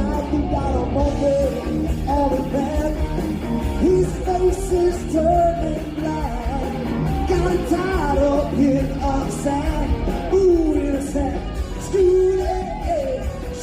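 Rock band playing a song with a lead singer's voice over the band.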